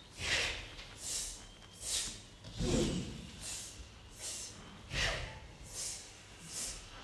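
A series of short, breathy hisses and exhalations from human voices, about one a second, a few with a deeper breath sound beneath.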